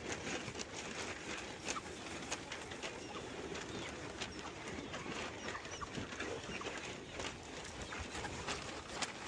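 Cattle eating grain at a feed trough: a dense, irregular run of crunching and chewing clicks, with birds calling now and then.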